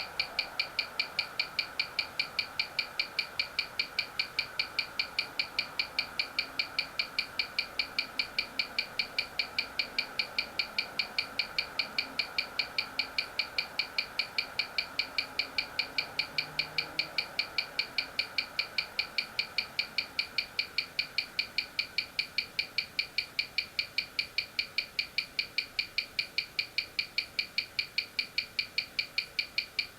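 Mechanical watch ticking steadily, several even ticks a second, from the balance and escapement of an 18,000 vph movement.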